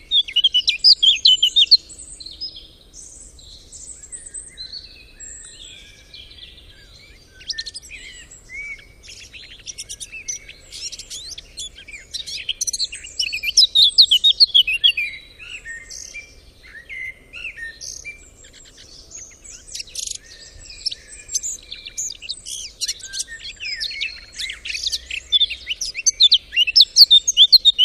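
Several small songbirds chirping and singing in a dense, overlapping chorus of short high calls and trills, loudest just after the start, midway and near the end.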